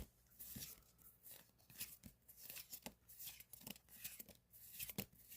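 Near silence with faint, scattered clicks and rustles of Pokémon trading cards being handled and flipped through.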